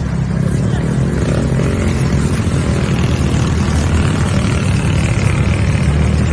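Off-road vehicle engine running steadily on the move, with a heavy low rumble.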